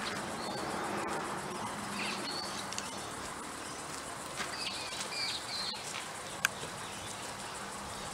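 Outdoor ambience with birds chirping: short high calls come several times over a steady background hiss. A single sharp click about six and a half seconds in is the loudest sound.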